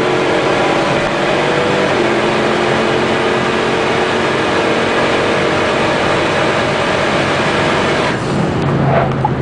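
Turbocharged 5.3-litre V8 of a 2006 Monte Carlo SS pulling hard under full throttle. The pitch holds fairly steady with a drop about two seconds in, like an upshift, and near the end the throttle lifts and the engine falls to a lower, softer note.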